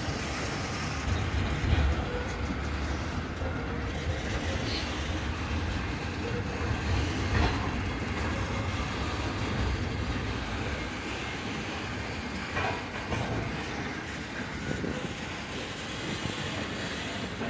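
Loaded coal train rolling past, a steady low rumble of the cars on the rails with a few faint knocks.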